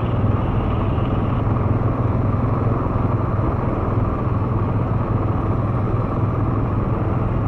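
ATV engine running at a steady, unchanging speed, with the even rumble of tyres on a rough gravel trail.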